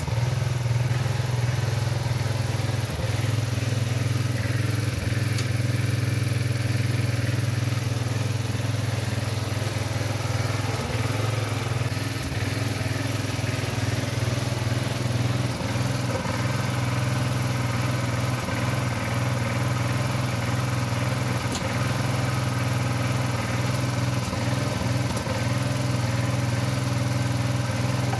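Small engine of an old Craftsman garden tractor with a front-end loader, running steadily at an even speed.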